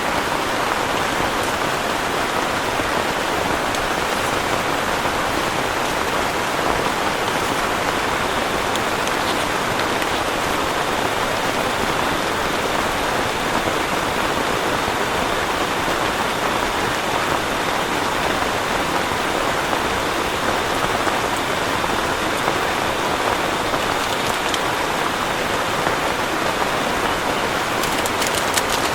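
Heavy rain falling steadily, an even hiss of drops with no letup.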